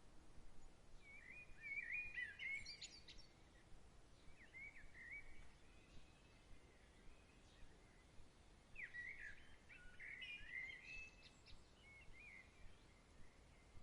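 Faint songbird singing quick warbling, chirping phrases: one burst about a second in, a short one around five seconds, and a longer run from about nine to twelve seconds, over a soft steady background hiss.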